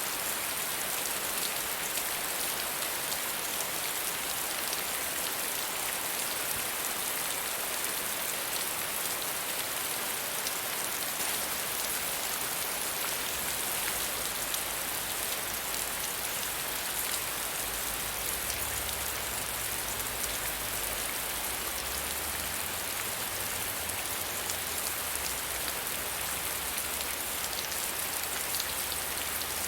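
Soft rain falling steadily, an even hiss of many drops on a surface.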